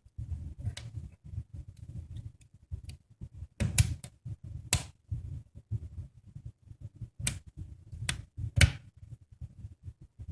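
Fire crackling in a fireplace: a constant low crackle with irregular sharp pops, a handful of them loud.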